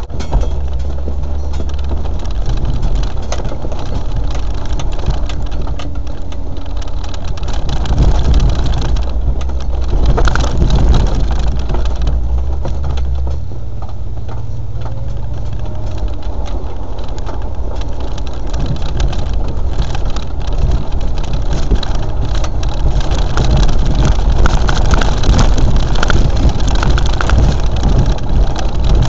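Land Rover four-wheel-drive engine running with a low drone, which shifts in pitch a couple of times.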